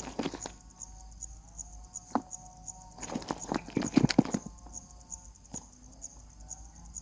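Nestlings scrambling and scuffling in the nest: irregular runs of scratching clicks and knocks, the busiest about three to four seconds in, over a faint, regular high ticking.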